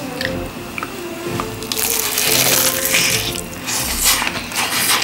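Crispy fried chicken being bitten and chewed close to the microphone: a long loud crunch from about two seconds in, then several sharp crackles near the end, over soft background music.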